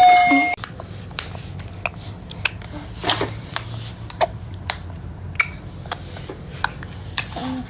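Baby making noises with her mouth: a brief squeak at the start, then irregular sharp clicks and smacks, about two a second.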